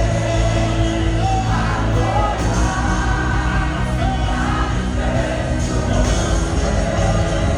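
Live worship music with singing over a steady low accompaniment, heard loud through a phone's microphone in a hall.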